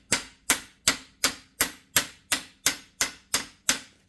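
A hammer striking a new universal joint bearing cap about three times a second in an even rhythm, about eleven sharp ringing blows, driving the cap into the front axle yoke; the cap is going in well.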